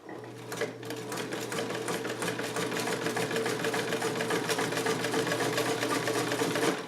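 Vintage Sovereign electric sewing machine running under its 1-amp motor, its needle stitching fast through apparel leather with a steady hum. It picks up speed over the first second and stops abruptly just before the end.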